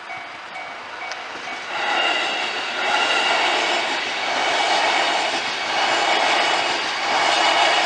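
Level-crossing warning bell ringing for about the first second, then a train on the JR Takasaki Line passing through the crossing, loud from about two seconds in, swelling and fading every second or two as the cars go by.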